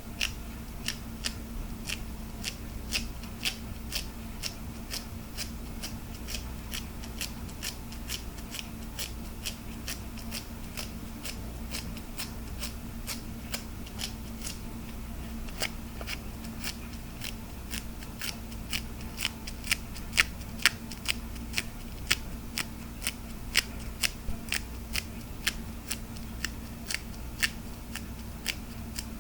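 Hard plastic tapped in a steady run of crisp clicks, about two a second, with some louder taps in the second half, over a steady low electrical hum.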